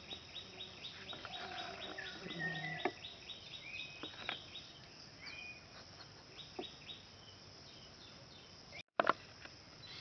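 Birds calling in woodland: a fast run of short, high chirps repeating about eight times a second for the first three seconds or so, then scattered whistled calls and chirps. The sound cuts out briefly near the end and returns with a click.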